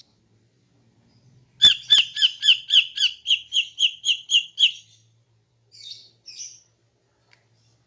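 Female cucak ijo (green leafbird) calling: a fast run of about a dozen short, sharp, down-slurred chirps at roughly four a second, starting a second and a half in and lasting about three seconds, followed by two fainter, harsher notes.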